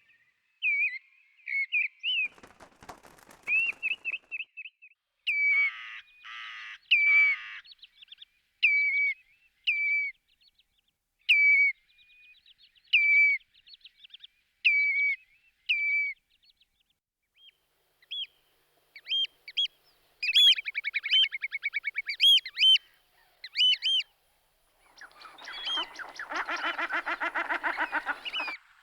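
Whimbrel calling: many short whistled notes and runs of rapid, rippling trilled whistles, coming and going throughout.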